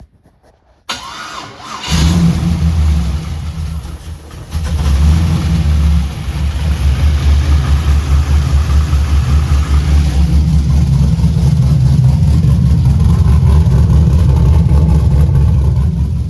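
Rebuilt Gen 3 5.3-litre LS V8 cranked on the starter about a second in, catching at about two seconds and running; it dips briefly near four seconds, then runs steadily and pretty good.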